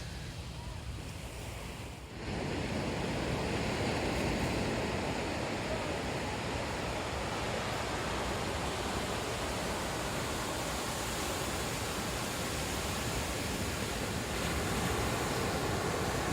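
Sea surf washing onto a beach: a steady rushing noise that gets louder about two seconds in.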